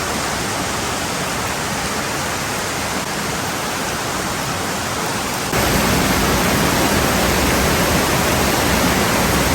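Heavy tropical rain pouring down in a steady, dense hiss. It turns abruptly louder a little past halfway.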